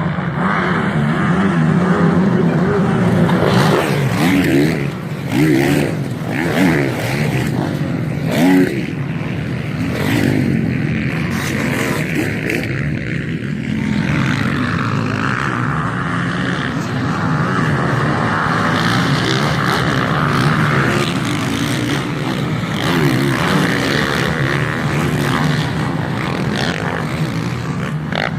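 Several motocross bikes racing, their engines revving up and down as they pass, with a few sharp swells in pitch and loudness between about four and nine seconds in.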